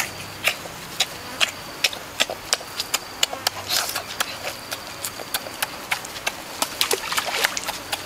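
Wet, smacking eating sounds from a person chewing roasted pig leg off the bone with their hands: irregular lip smacks and mouth clicks, several a second.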